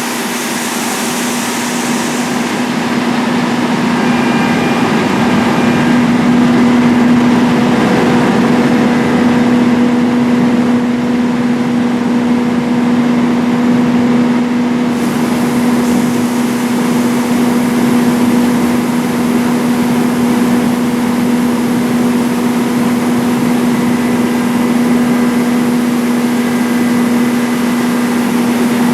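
A large engine running steadily at a constant speed, a continuous hum that holds one pitch throughout.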